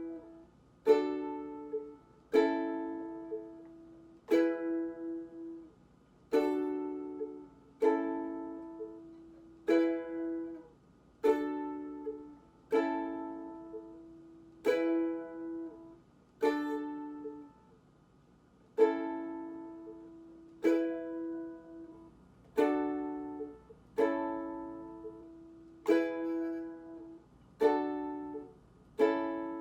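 Ukulele chords strummed slowly, one stroke about every one and a half to two seconds, each left to ring out and fade before the next, moving through a chord progression.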